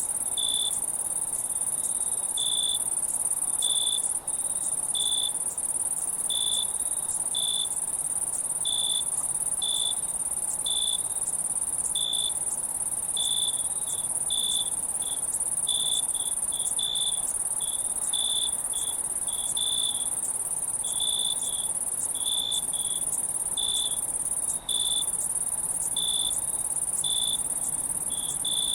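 Insects, crickets, chirping: a steady high-pitched trill with short chirps one to two times a second over it.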